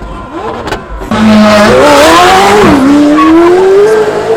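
A car engine revved hard and held at high revs with tyres squealing, starting about a second in after a few short rev blips.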